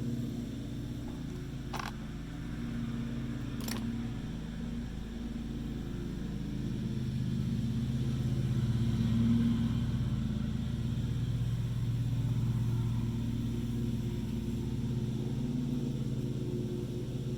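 A steady low mechanical hum, like a motor or engine running, with two sharp clicks about two and four seconds in.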